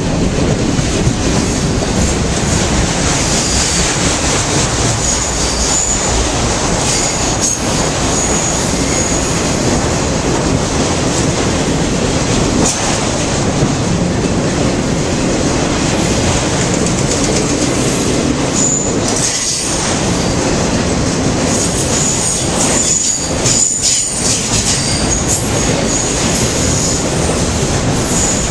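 Freight train cars rolling past close by: steady wheel-and-rail noise, with a thin high wheel squeal that comes and goes.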